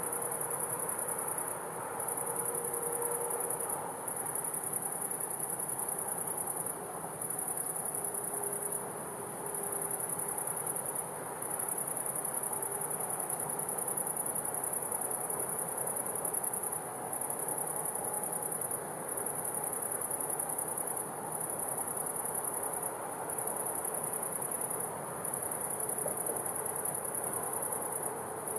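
Crickets trilling: a continuous high-pitched trill that breaks off briefly every two seconds or so, over a faint low background hum.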